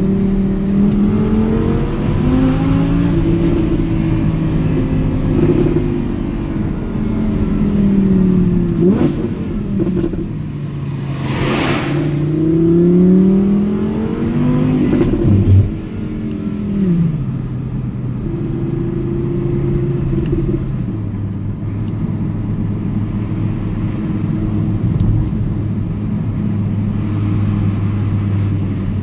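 Audi R8 V10 Plus's 5.2-litre naturally aspirated V10 pulling up through the revs several times, with the pitch dropping at each gear change, and a short loud burst about twelve seconds in. It then settles to a steady low-rev cruise for the last part.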